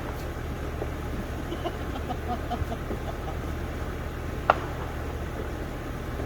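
A single sharp pop of a distant firework about four and a half seconds in, with a few faint crackles, over a steady low hum.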